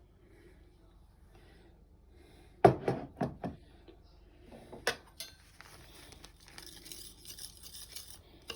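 A few sharp knocks and clinks of the knife and oiled sharpening stone being handled, then from about halfway in the knife blade stroked back and forth across the stone's smooth side, a steady run of scraping strokes.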